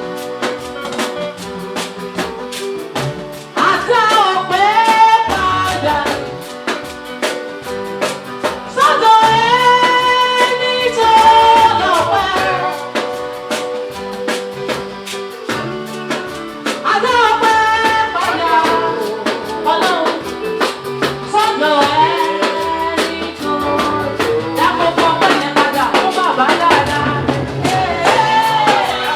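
Live gospel band music: drum kit and guitar keeping a steady beat, with a voice singing gliding phrases over it.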